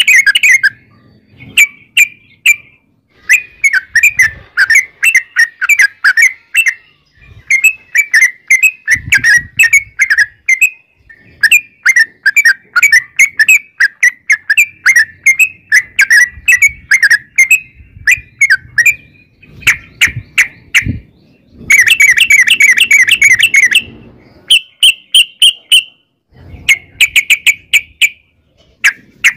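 Yellow-vented bulbul (trucukan) singing long, fast, bubbling rolls of chattering notes. The phrases repeat with short pauses between them, and the recording is loud, with sharp clicks among the notes.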